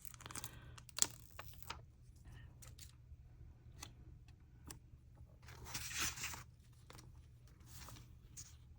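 Paper being handled on a handmade journal page: scattered light taps and clicks, with a longer rustle of paper about six seconds in and a shorter one near the end.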